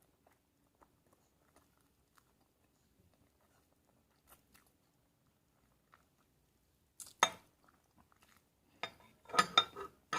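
A person chewing food close to the microphone, faint for most of the stretch, then one loud sharp crunch about seven seconds in and a quick run of clicks and crunches near the end.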